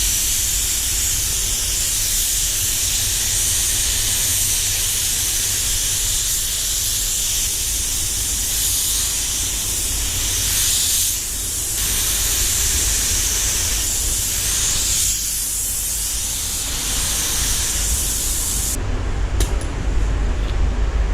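Walcom Carbonio 360 spray gun hissing steadily with compressed air as it lays on the second clear coat, easing off briefly twice. About two seconds before the end the spraying stops abruptly, leaving a low steady rumble and a couple of clicks.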